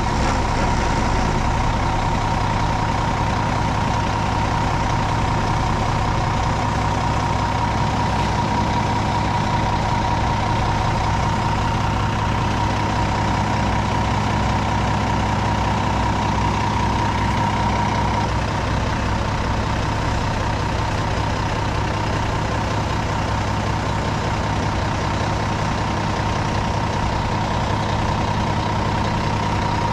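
Heavy diesel truck engine idling steadily, with a steady high whine running alongside the low engine hum.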